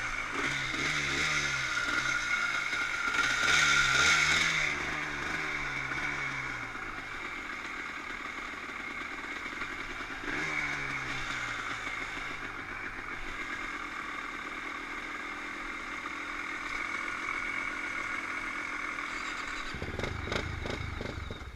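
Dirt bike engine running and revved up and down several times in the first few seconds and again about ten seconds in, then running on steadily. A low rumble takes over near the end.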